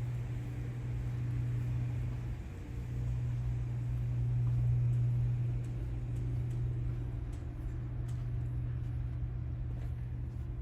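Steady low hum of a cruise ship's machinery over a noisy background, swelling slightly around the middle, with a few faint clicks in the second half.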